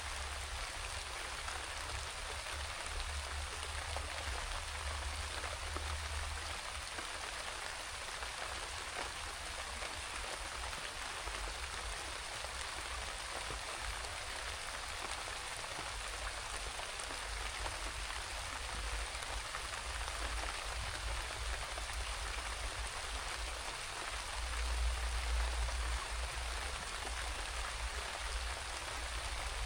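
Steady rain falling, an even hiss of drops, with a low rumble swelling at the start and again near the end.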